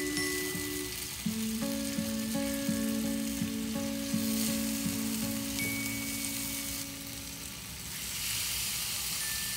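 Rosemary and mushrooms sizzling in hot oil on an electric grill pan as they are turned with tongs. About eight seconds in a steak is laid on and the sizzle gets louder. Soft background music plays underneath.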